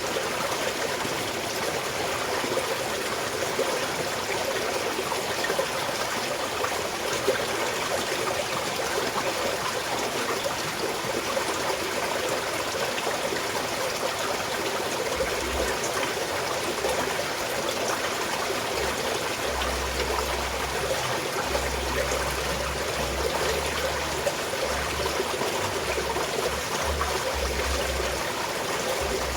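Small mountain stream flowing and trickling steadily over rocks. A low rumble comes and goes in the second half.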